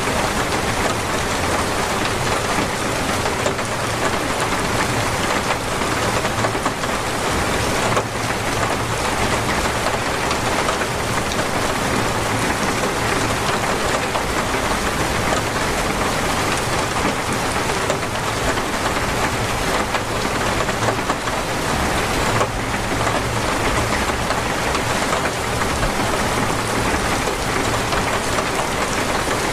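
Torrential rain falling steadily, a dense, even hiss with no letup.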